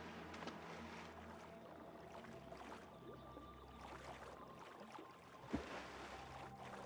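Water splashing and sloshing in a swamp over faint sustained background music, with one sharp, louder splash about five and a half seconds in.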